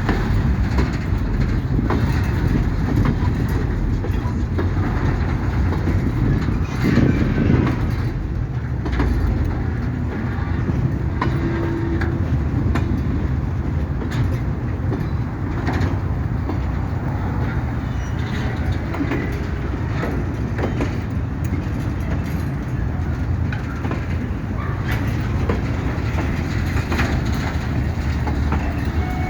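Empty mineral hopper wagons of a freight train rolling past, a steady low rumble with the wheels clicking and clanking over the rail joints.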